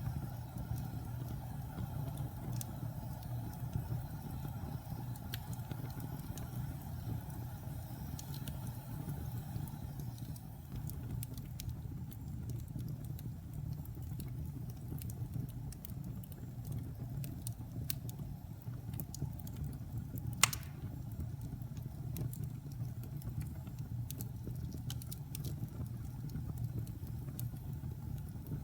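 Wood fire burning in a fireplace: a steady low rumble of flames with scattered small crackles and one louder pop about twenty seconds in.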